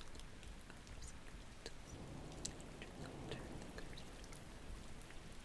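Steady rain falling, with scattered light drip ticks and a soft swell of low rumble about two seconds in.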